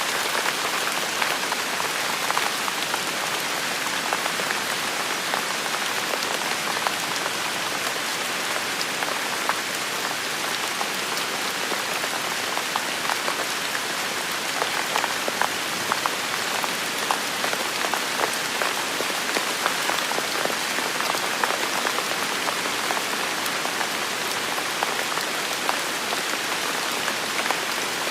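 Steady rain falling on hard surfaces, an even hiss with many close drop ticks and spatters.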